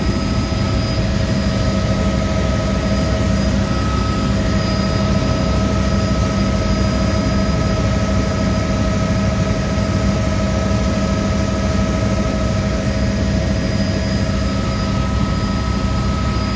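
Helicopter in flight: a loud, steady engine and rotor drone with several steady whining tones over it.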